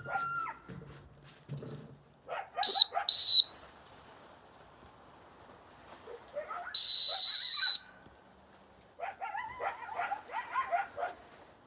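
A pair of coyotes howling and yipping, answered by a dog whistle blown loud and high: two short blasts a few seconds in, then one longer blast about a second long. A burst of wavering yips and howls from the coyotes follows near the end.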